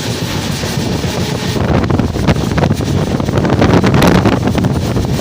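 A moving passenger train, its running noise and rattle mixed with heavy wind buffeting the microphone; it grows a little louder about one and a half seconds in.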